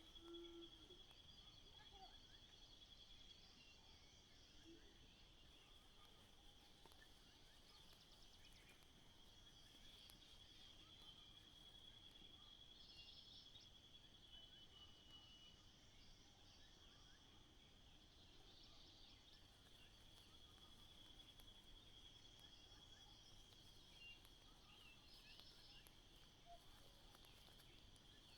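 Faint outdoor ambience: an insect trilling on one steady high pitch, with a few faint short chirps over it.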